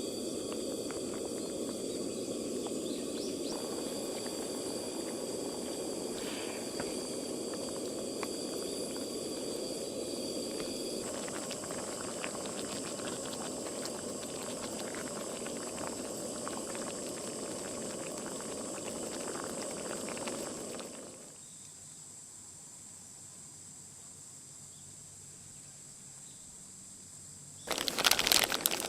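A steady hiss that cuts off about two-thirds of the way through, leaving faint steady high-pitched tones; a loud crackling starts just before the end.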